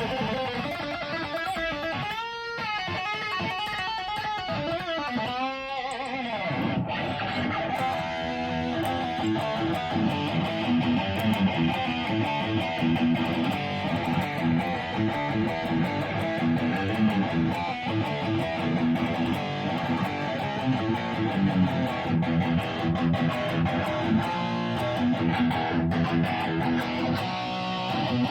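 Electric guitar playing a rock riff. A few seconds in come swooping pitch bends, then from about eight seconds in a steady, driving run of riffing.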